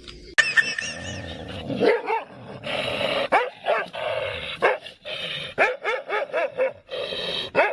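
A dog barking and yipping in short, pitched calls, with a few longer whining cries in the middle and quicker calls, several a second, in the second half.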